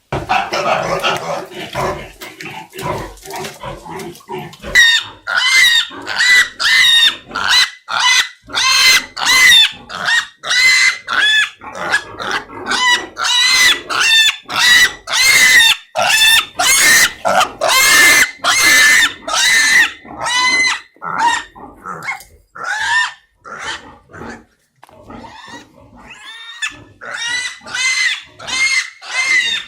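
Piglets squealing loudly and over and over, about two squeals a second. The squeals are rougher and lower at first and turn sharp and high after about four seconds. These are the distress squeals of piglets being caught and handled.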